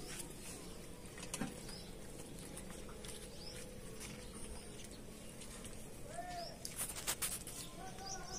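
Birds calling in the background: small high chirps and a couple of low, arched coo-like calls from a dove or pigeon. A brief cluster of light clinks about seven seconds in.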